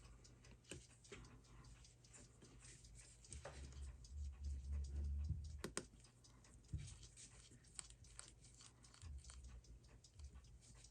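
Faint, irregular small clicks and taps of metal tweezers and watchmaker's tools handling the parts of a disassembled Seiko 6R15 movement, with a low rumble from about three and a half to five and a half seconds in and a sharper click just after.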